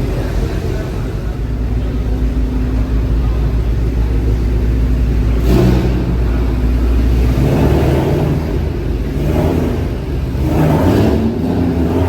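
A car engine running with a deep rumble and revved in a few short blips in the second half.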